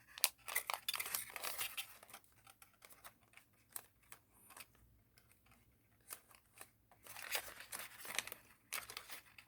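A sheet of origami paper being handled and folded by hand: it is turned over and creased, giving irregular crinkling and rustling, busier at the start and again near the end with a quieter stretch between.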